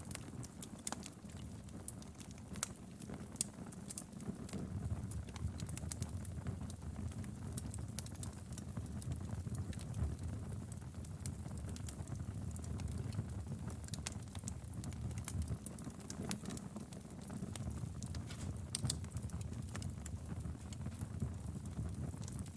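Wood fire crackling in a fireplace: frequent, irregular sharp pops and snaps over a low steady rumble.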